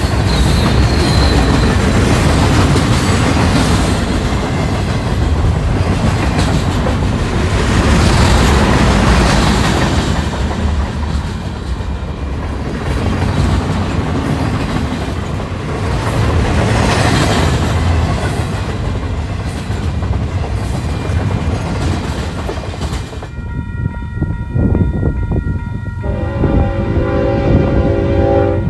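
Freight train's container well cars rolling past close by, steel wheels clattering on the rails with a heavy rumble that swells and eases. About 23 seconds in it cuts to a Union Pacific locomotive's multi-chime air horn blowing a held chord, with lower notes joining a few seconds later.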